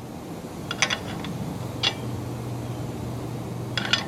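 A few light metallic clicks and clinks as the steel carriage locks of a homemade engine stand are loosened, over a steady low hum.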